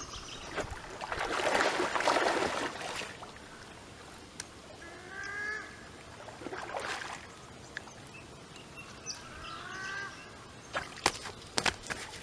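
Water splashing as a large hooked carp thrashes at the surface while it is being landed. There are two short pitched calls partway through, and a run of sharp clicks near the end.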